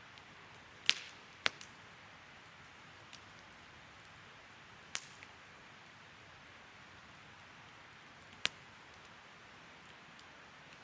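Wood fire burning with a steady soft hiss, and four sharp pops from the burning wood, two close together about a second in and the others near the middle and near the end.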